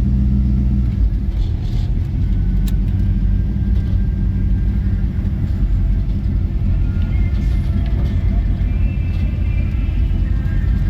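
Car engine running steadily, with a dense low-pitched sound that is the loudest thing throughout.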